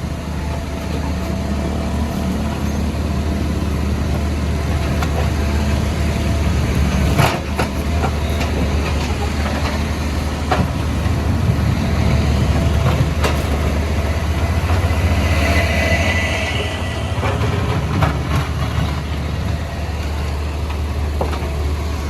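Caterpillar backhoe loader's diesel engine running steadily under load, with a few sharp knocks as the bucket strikes and breaks up the road surface.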